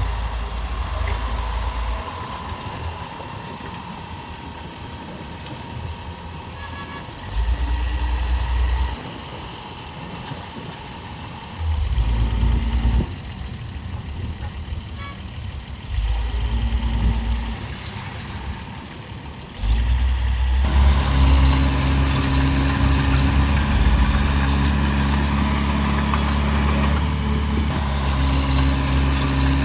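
Heavy diesel engine of earth-moving machinery, revving up in short surges a few seconds apart. About two-thirds of the way in it rises to a loud, steady high-rev running with a pitched hum.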